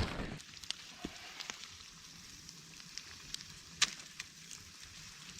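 Campfire crackling quietly: a faint steady hiss with scattered sharp pops, the loudest a little before the end.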